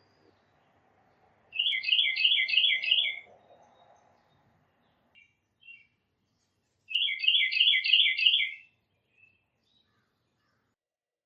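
A songbird singing two phrases, each a quick run of about six repeated two-part whistled notes, the second phrase coming about five seconds after the first, with a few short soft call notes between and after them.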